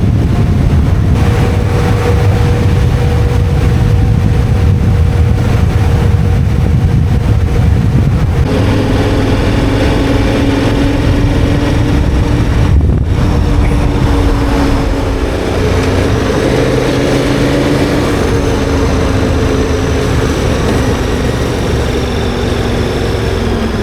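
Adventure motorcycle's large V-twin engine running at a steady cruising speed, over a heavy rumble of wind and tyre noise. The engine note jumps to a different steady pitch about eight seconds in, with a brief break near thirteen seconds.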